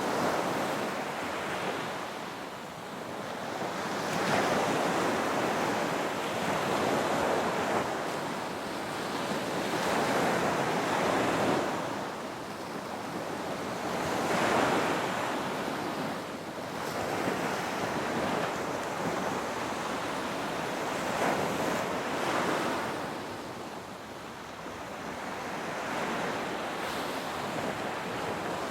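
Ocean surf: waves breaking and washing in, swelling and easing every few seconds, with some wind.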